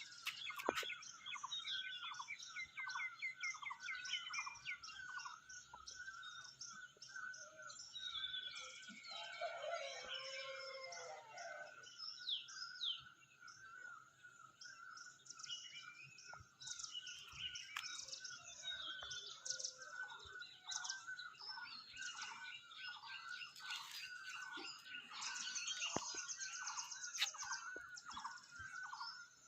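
Many birds calling and chirping together. One bird repeats a short falling note about twice a second throughout, under a busy mix of higher chirps and trills from others.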